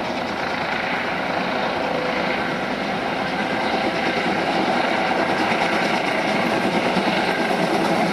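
A train running on the line, its noise growing louder from about halfway through as it comes nearer.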